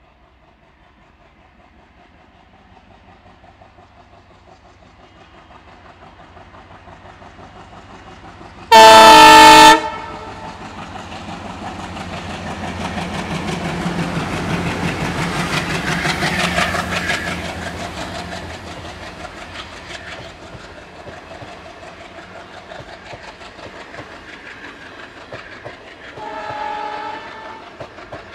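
Indian Railways train approaching and passing at speed. The locomotive horn sounds one loud blast of about a second, some nine seconds in. The rumble and clatter of the wheels on the rails build to a peak a few seconds later, then fade as the train recedes. A second, fainter horn blast comes near the end.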